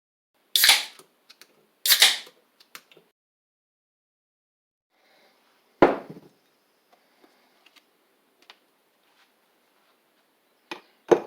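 A series of sharp knocks and clunks with small clicks between them: three loud hits in the first six seconds, then a closer pair near the end.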